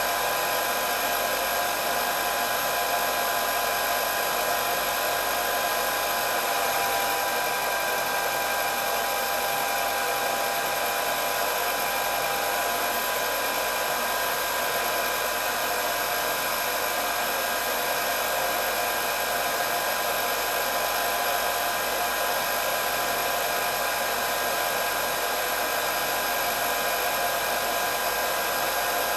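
Electric hair dryer running continuously: a steady rushing of blown air with a constant motor whine, no change in speed.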